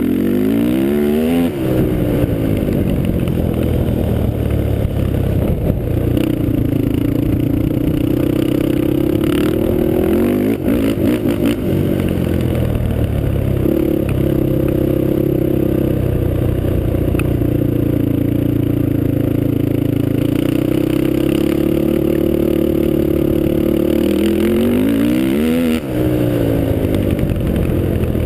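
Honda TRX450R ATV's single-cylinder four-stroke engine, a Janssen-built motor breathing through a Motoworks aftermarket exhaust, running while ridden. It revs up and falls back sharply near the start and again near the end, and holds a fairly steady pitch in between.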